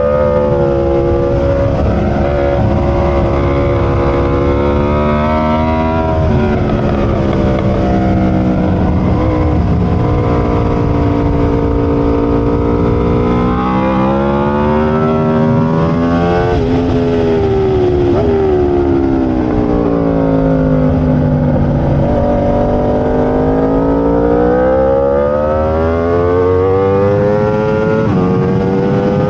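Aprilia RSV4's V4 engine running hard at racing speed: the engine note climbs and drops sharply several times as the rider works the throttle and gears. It falls in a long sweep under braking about two-thirds of the way through, then climbs steadily again.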